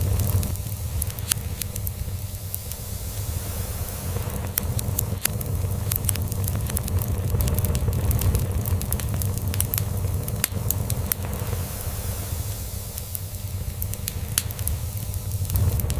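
Log fire crackling with frequent sharp pops and snaps over a steady hiss, with a cat's low purr rumbling underneath that swells and eases slowly.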